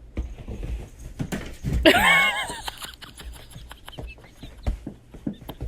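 A pet animal's short wavering cry about two seconds in, among a run of light taps and knocks.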